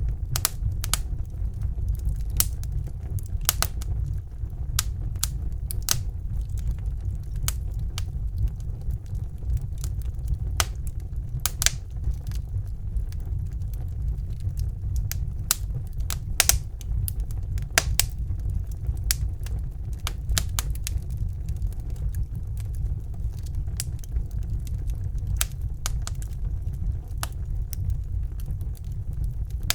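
Fire burning in a fireplace: a steady low rumble of flames with irregular sharp crackles and pops, one or two a second.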